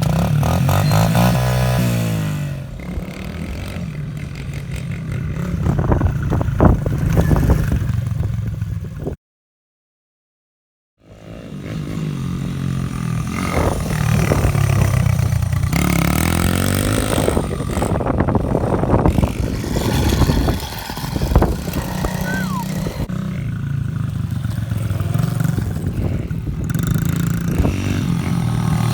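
Small motorbike engines running and revving as they are ridden, the pitch rising and falling repeatedly. The sound cuts out completely for about two seconds around nine seconds in.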